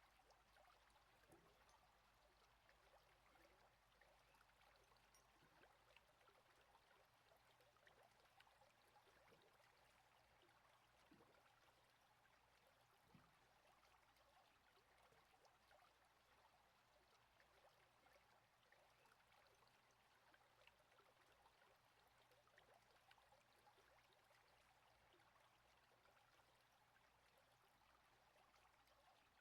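Faint, steady sound of a flowing stream, with small trickles and drips.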